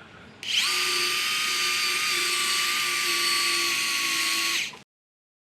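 A power tool running steadily for about four seconds, a high hiss with a steady whine over it, then cut off abruptly.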